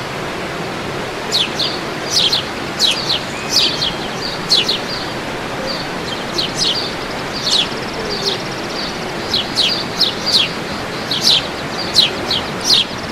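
Birds chirping again and again in short, sharp, high notes that sweep downward, about one or two a second, over a steady rush of falling water.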